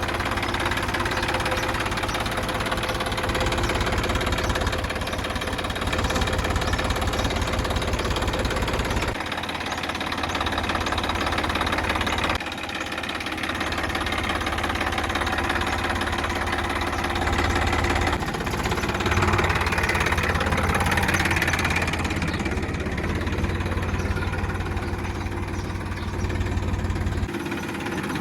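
An engine running steadily with a low rumble that changes abruptly a couple of times. A hiss joins it for a few seconds about two-thirds of the way through.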